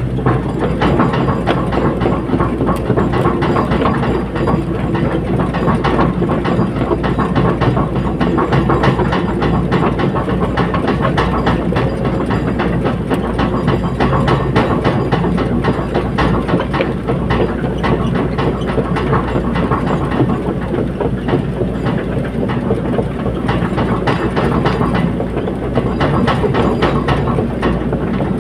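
Caterpillar 320D hydraulic excavator at work: its diesel engine runs steadily under a dense, rapid metallic clatter.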